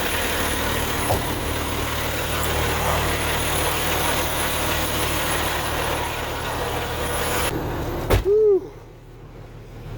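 Steady engine rumble and hiss that ends about eight seconds in with a sharp knock, a truck cab door shutting, after which it is much quieter; a short grunt-like vocal sound follows.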